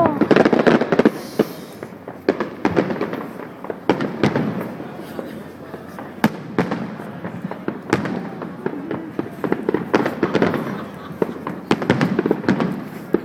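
Aerial fireworks bursting one after another: a steady run of sharp bangs and crackles, each with a rolling echo.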